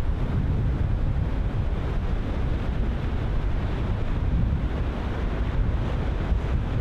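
Ocean surf washing in, with strong wind buffeting the microphone as a low rumble.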